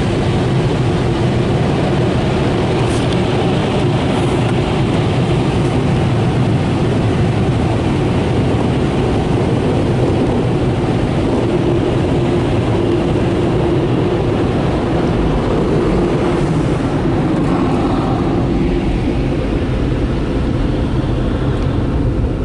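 Car wash air dryer blowers running steadily, a loud continuous rush of air.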